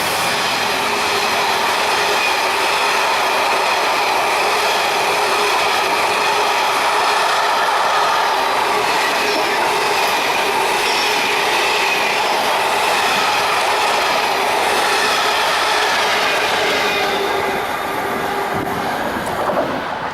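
Engineers' train of sleeper wagons rolling past, with the wheels clattering on the rails and several steady high squealing tones from the wheels. The sound eases off near the end.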